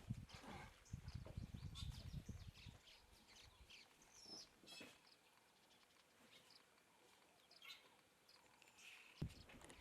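Faint outdoor ambience with scattered short bird chirps. Soft low thumps and rumble in the first two and a half seconds, and one low knock near the end.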